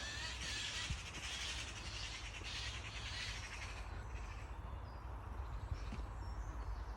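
Crow cawing, a series of harsh calls about once a second through the first four seconds, over a steady low rumble.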